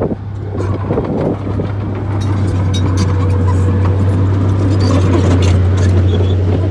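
Bulldozer's diesel engine running steadily with a deep drone, with scattered light metallic clicks and clanks over it. It grows a little louder about two seconds in.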